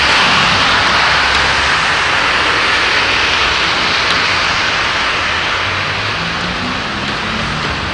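Heavy rain pouring down steadily, a dense hiss without breaks. A low steady hum comes in near the end.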